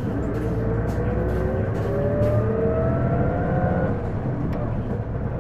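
Isuzu Erga city bus (PJ-LV234L1) heard from inside while accelerating: the engine runs under a whine that climbs in pitch for about four seconds and then drops back. The whine is an abnormal noise that sounds like an automatic transmission, which the owner suspects comes from the transmission.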